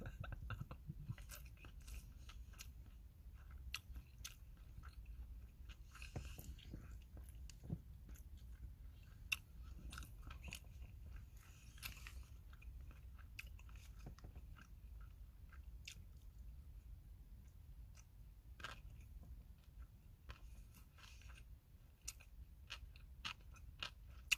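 A person chewing and eating food quietly, with scattered small clicks and crunches of the mouth and food.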